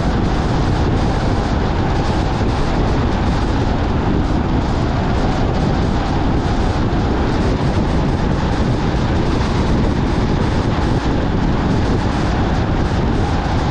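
Steady road and engine noise of a car driving, even throughout with no sudden sounds.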